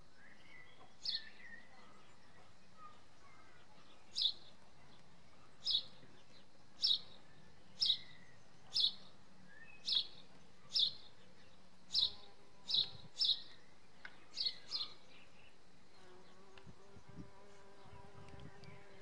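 A bird repeating a short, high chirp about once a second. About sixteen seconds in, a mason bee's buzz starts up underneath as a steady hum.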